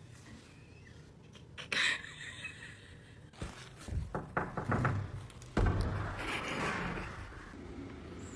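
A few dull thumps and knocks: one about two seconds in, a cluster a little past the middle, then a heavier thud followed by a rustling scuffle.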